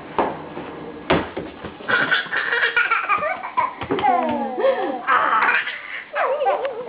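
Young child laughing in bursts of high, wavering squeals and giggles, with two sharp knocks in the first second or so.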